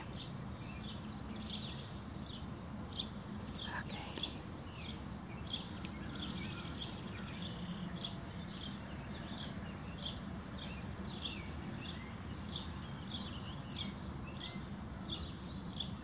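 Small birds chirping over and over with short, high chirps, over a steady low background hum.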